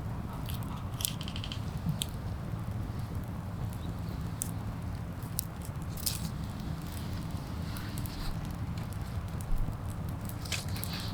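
Newly lit campfire crackling, with scattered sharp pops and snaps over a steady low rumble.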